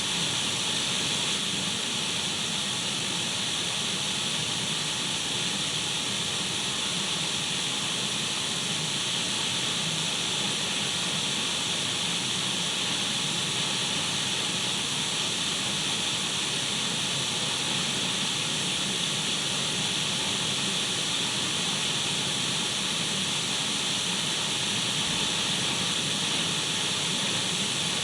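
Radio static: a steady, unbroken hiss of an untuned radio, loudest in the upper treble, played as white noise to soothe a baby to sleep.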